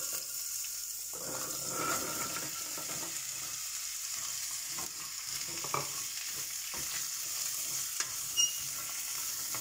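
Chopped carrots sizzling in hot oil in a pan, with occasional short knocks and scrapes against the pan. There is a sharper click about eight seconds in.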